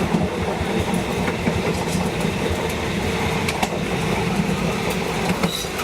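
Passenger train running steadily on the track, wheels rumbling on the rails with a few sharp clicks.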